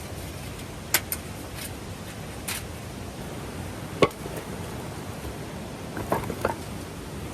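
Steady rush of a mountain stream, with a few sharp clicks and knocks over it: the loudest about four seconds in, and a small cluster near the end.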